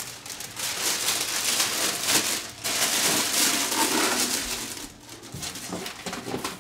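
Rustling and crinkling of plastic wrap and packing material as model airplane parts are handled and unpacked, louder and softer by turns with a lull about five seconds in.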